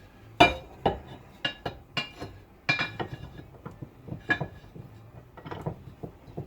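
Irregular metallic clinks and knocks, about a dozen sharp strikes with a short ring, as steel pieces and tools are handled and knocked together while a metal part is fitted; the loudest come about half a second in and just under three seconds in.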